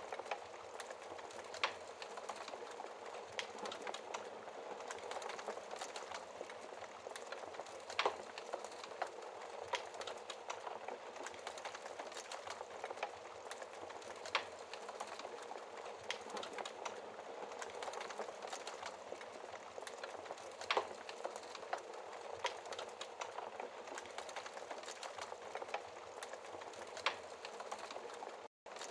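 Wood fire crackling steadily in a fireplace, with a continual patter of small snaps and a few louder pops from the burning logs. The sound cuts out for a split second near the end.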